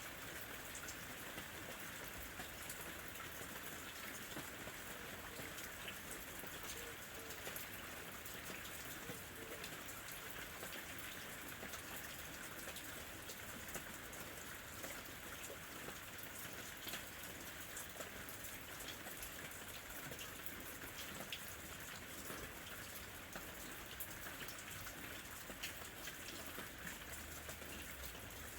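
Steady rain falling, with many small separate drop ticks over an even hiss.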